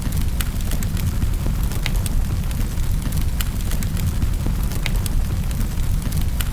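Wood fire crackling in a fireplace: a steady low rumble of burning with scattered sharp crackles and pops at irregular moments.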